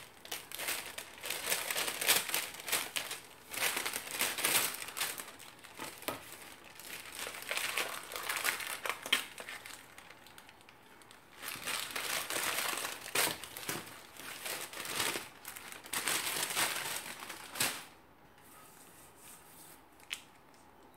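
Wax paper crinkling and tearing in irregular bursts as it is worked off a cured epoxy repair that it is stuck to; the paper may have been laid with the waxy side away from the piece. The crinkling dies away for the last few seconds.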